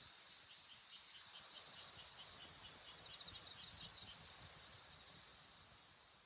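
Faint outdoor ambience with an insect, cricket-like, chirping in a quick even series of high pulses, about five a second, that stops about four seconds in, over a soft steady hiss.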